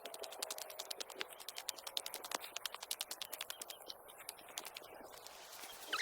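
Footsteps crunching and crackling on a dirt trail, a fast irregular run of small clicks, with a brief high squeak near the end.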